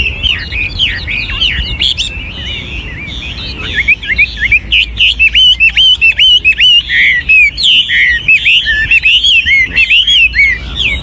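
An old wild-caught Chinese hwamei (họa mi) decoy bird singing a fast, unbroken song of varied, sweeping whistled phrases, growing louder and denser about four seconds in.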